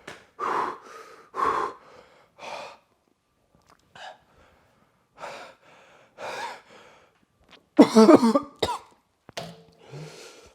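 A man coughing and breathing hard in a string of short bursts about a second apart, the loudest, a voiced cough, about eight seconds in. His throat is burning from swallowing spoonfuls of mixed hot sauce.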